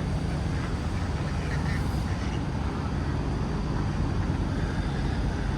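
Semi truck's diesel engine running steadily, a constant low hum with road or road-side noise over it.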